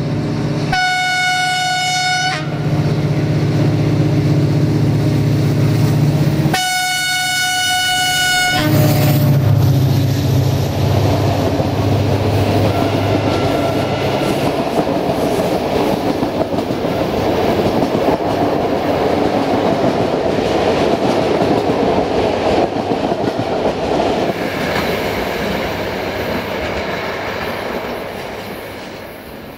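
A Romanian CFR Class 65 diesel-electric locomotive sounds two long single-note horn blasts, a few seconds apart, over the heavy rumble of its engine as it approaches and passes. Then its passenger coaches roll by with the clatter of wheels on the rails, fading near the end.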